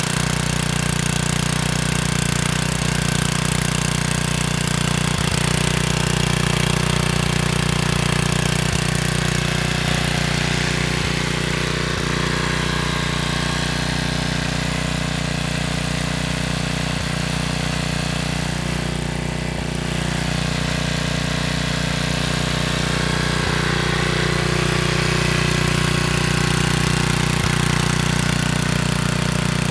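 Generator engine running steadily just after a cold start.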